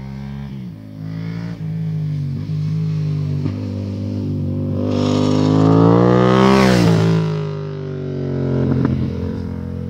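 Yamaha MT-07 parallel-twin engine running through an aftermarket MIVV GP carbon exhaust, holding fairly steady revs, then revving up for about two seconds before the revs drop sharply. A short burst of crackling follows near the end.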